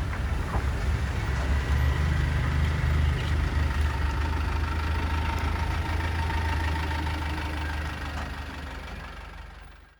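Buddha Air ATR 72-500's twin Pratt & Whitney PW127 turboprop engines and propellers after takeoff: a steady low rumble with a few held tones above it. The sound grows quieter over the last few seconds and fades out.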